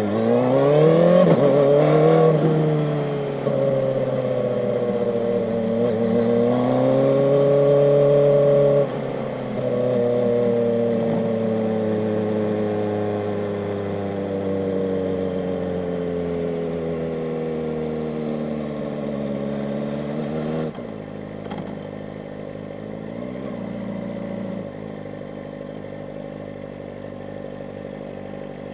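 Kawasaki ZX-4RR's 399 cc inline-four engine, heard onboard. It revs up hard, with a gear change about two seconds in and another near nine seconds. It then cruises with the pitch slowly sinking, drops to a low run about twenty seconds in, and gives a short throttle blip near the end.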